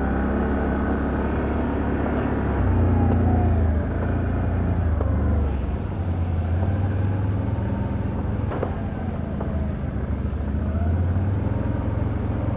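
Can-Am Outlander ATV engine running, its pitch rising and falling as the throttle is worked, with a single sharp click a little past the middle.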